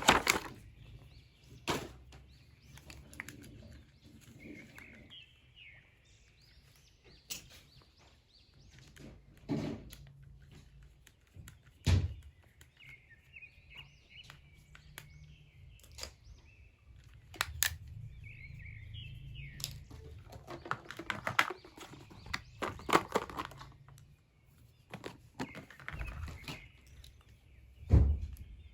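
Scattered clicks and knocks of toys and packaging being handled, with a heavier thump about 12 seconds in and another near the end. Birds chirp in the background several times.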